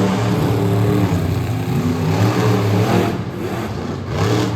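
Monster truck engine revving loudly, its pitch rising and falling as the throttle is worked.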